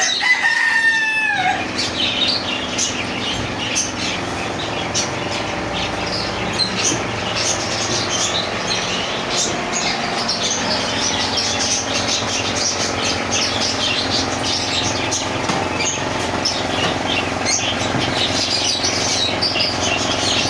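Many caged birds chirping and twittering together without pause, a dense overlapping chorus. A short sliding call with several overtones stands out in the first second and a half, over a steady low hum.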